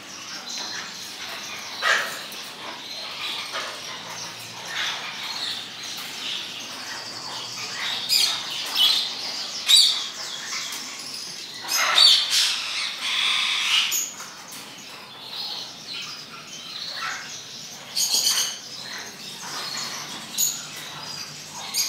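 Caged birds squawking and chirping at irregular intervals, with a few short sharp clicks and rustles among the calls.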